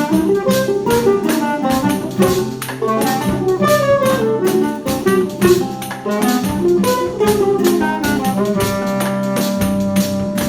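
A choro ensemble playing: a quick, winding melody over plucked guitar accompaniment and steady hand-percussion strokes, with a long held note near the end.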